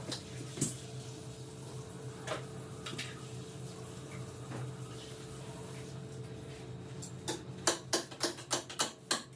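A steady low hum, with a few scattered clicks and then a quick run of about eight sharp taps near the end.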